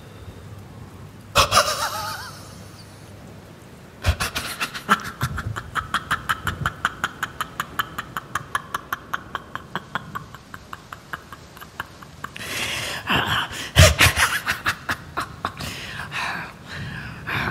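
A man laughing: a sharp loud outburst about a second in, then a long run of rapid, short laughs at about five a second, swelling into louder laughter near the end.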